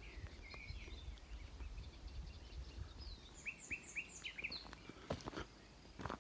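Small songbirds chirping, with a quick run of about five short notes about halfway through, over a low rumble like wind on the microphone. A few sharp clicks come near the end.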